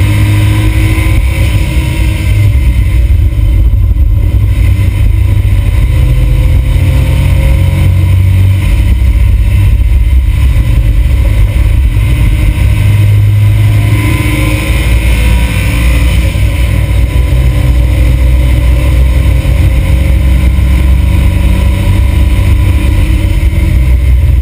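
Smart Roadster's turbocharged three-cylinder engine running hard at track speed, heard from inside the cabin, loud throughout with a dense low rumble and wind and road noise. The engine note rises and falls a few times with throttle and gear changes.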